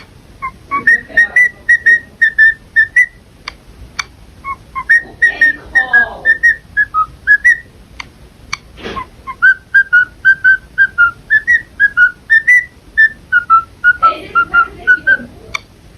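Whistling: a quick run of short, clear notes in a tune-like pattern, the pitch stepping up and down. A lower wavering sound briefly joins about five seconds in and again near the end.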